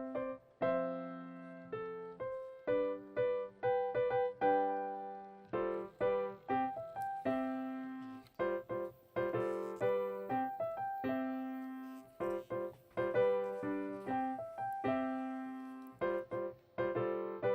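Background piano music: a light melody with chords, each note struck and fading away.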